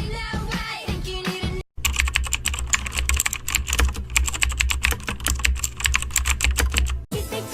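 Rapid, continuous typing on a computer keyboard, a dense stream of clicks over a low hum, starting abruptly after a short stretch of pop music and cutting off near the end as the music returns.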